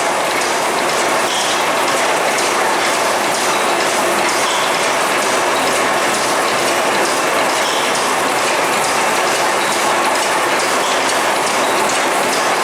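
Stationary steam mill engine running, its moving parts making a steady mechanical clatter that repeats in a regular rhythm.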